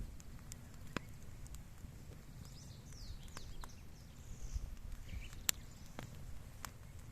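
Wood bonfire crackling, with sharp pops at irregular intervals, the loudest a little over five seconds in. Faint bird chirps come in the middle.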